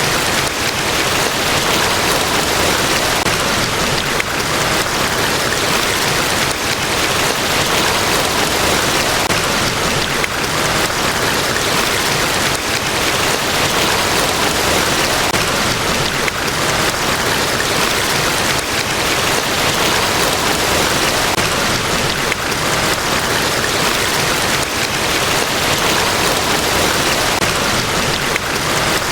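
Niagara Falls, a large waterfall, pouring: a loud, steady rush of falling water with no breaks or changes.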